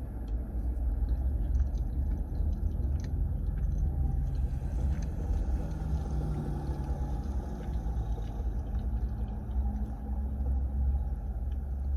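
Steady low rumble inside a car's cabin, with faint scattered small clicks.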